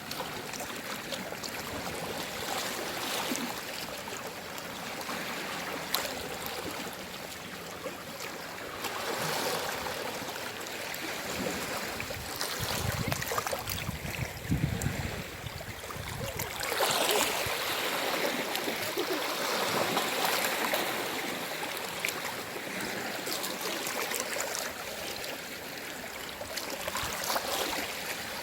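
Calm sea waves washing onto the shore, a steady rush that swells and fades as each wave comes in, with a deeper, louder wash about halfway through.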